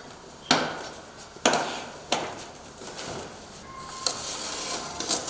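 Cardboard shipping box being handled and opened: three sharp knocks about a second apart, then a longer scraping, rustling stretch near the end.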